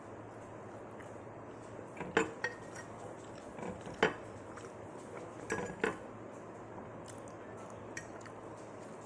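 A handful of sharp clinks and taps of tableware against a plate or table, scattered and irregular, the loudest about four seconds in.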